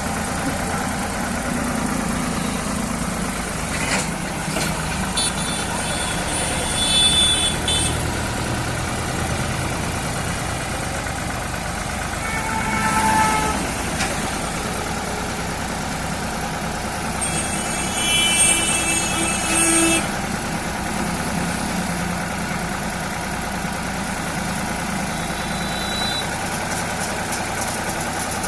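Escort tractor's diesel engine running steadily, with a few short high-pitched tones over it, about a quarter, a half and two-thirds of the way through.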